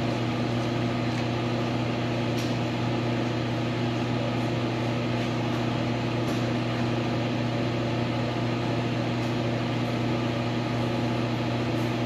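Lathe motor running steadily, a constant electric-motor hum with no change in pitch or load.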